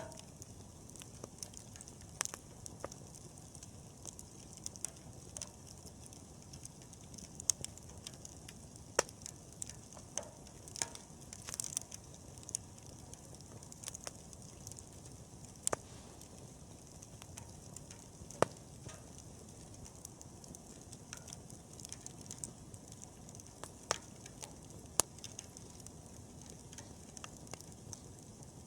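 Wood campfire burning, with a steady low hiss and irregular sharp crackles and pops from the burning wood. A short hissing flare comes about twelve seconds in.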